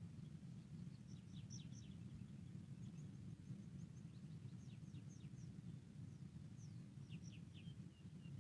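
Faint bird chirps and short twittering phrases coming in three spells, over a steady low rumble.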